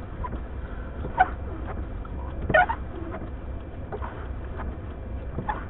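Car windshield wipers sweeping in a blizzard, the blades giving a short rubbery squeak about every one and a half seconds, over the steady low rumble of the idling car.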